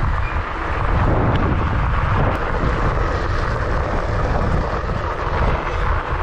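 Steady rush of wind buffeting the microphone over the rolling noise of a moving e-bike, with a heavy, fluctuating low rumble.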